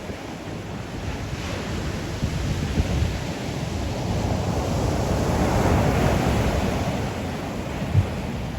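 Ocean surf: a wave swelling and washing in over a few seconds, loudest about halfway through and then easing. Wind buffets the microphone with a low rumble throughout.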